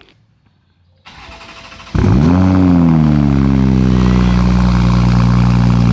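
2021 Toyota Supra's B58 turbocharged inline-six starting up through its RK titanium exhaust. A quieter hum comes in about a second in, then the engine catches about two seconds in, flares up in revs and settles into a steady idle.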